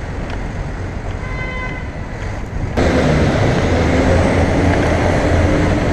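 City road traffic around a moving bicycle: steady traffic noise, a brief high tone about a second and a half in, then nearly three seconds in the sound jumps louder and the low hum of a large vehicle's engine runs close by.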